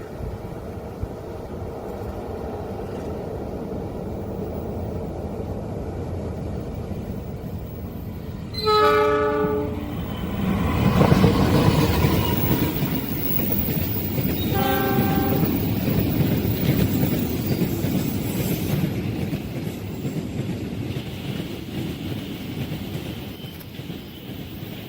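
Train passing: the locomotive horn sounds twice, a blast of about a second and then a shorter one about six seconds later. Throughout is the steady rumble of the train on the rails, loudest in the middle as it goes by.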